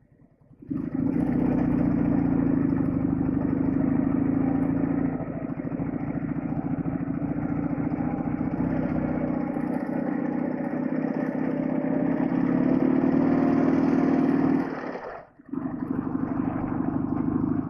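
Flat-twin motorcycle engine running while riding. It eases off about a third of the way in, pulls harder again later, and briefly cuts out near the end.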